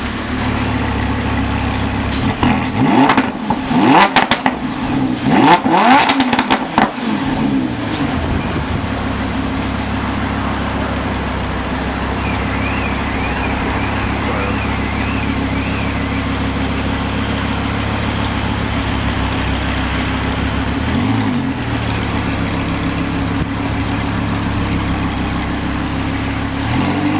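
Lamborghini V10 engine blipped several times in quick succession, the revs rising and falling sharply, then settling back to a steady idle. It gives one small blip of the throttle later on.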